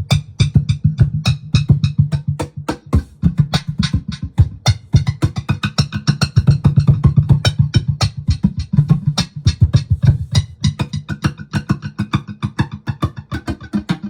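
Laptop cajon played with fast, dense hand strikes through a Digitech BP355 multi-effects pedal, with a steady low tone from the effect preset sustained under the hits.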